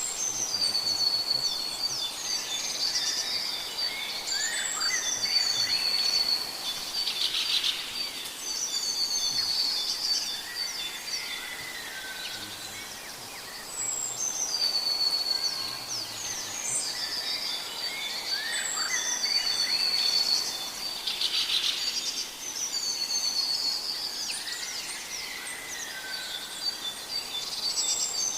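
Birds singing, with high whistled and trilled phrases repeated every few seconds, over a faint steady high tone.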